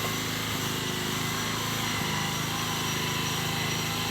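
Small engine running steadily at an even pitch, a constant low hum.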